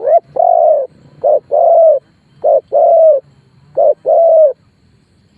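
Spotted dove cooing: four repeated two-part coos, each a short note followed by a longer, lower croon, about one phrase every second and a quarter.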